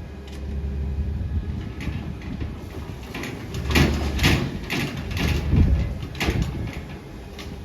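Grapple truck engine running with a steady low rumble, with a run of sharp clunks and knocks in the middle as the grapple works a pile.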